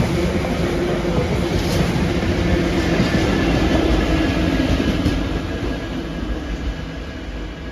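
Diesel-hauled freight train passing close by, its wagons running over the rails with a few clicks from the wheels. The sound grows fainter over the last couple of seconds as the train moves away.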